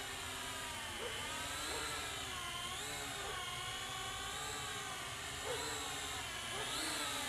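Syma X8HG quadcopter's motors and propellers whining, the pitch rising and falling several times as the throttle changes.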